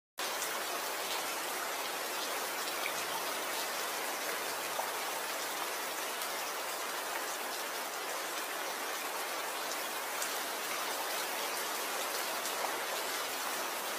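Rain falling steadily: an even hiss with scattered taps of single drops.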